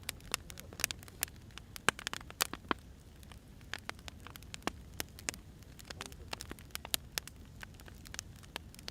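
Firewood fire crackling: irregular sharp pops and snaps, several a second, over a steady low rumble of the burning logs.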